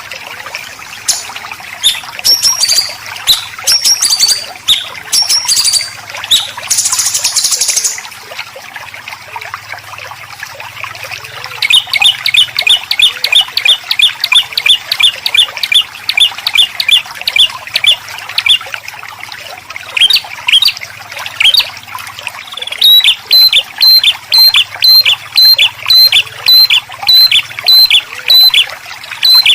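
Songbird calls over a steady trickle of water. The first eight seconds or so hold harsh, rasping 'besetan' call bursts. From about twelve seconds in come fast runs of short, sharp repeated notes, several a second, with a short break around twenty seconds.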